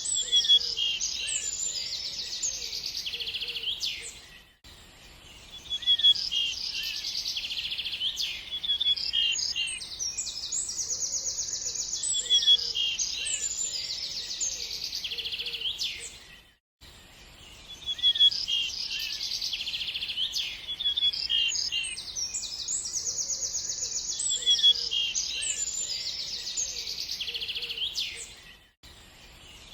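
Songbirds chirping and trilling densely in high-pitched song, several calls overlapping. It is a short recording looped roughly every twelve seconds, with a brief drop-out at each repeat.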